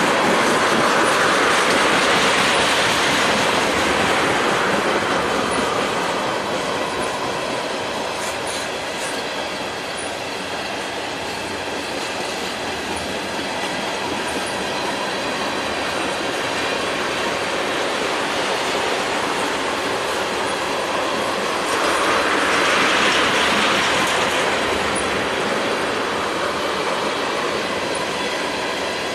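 Freight train of tank cars rolling past at close range: a continuous rush of steel wheels on rail with clicking over the joints. The rush swells louder near the start and again about 22 seconds in.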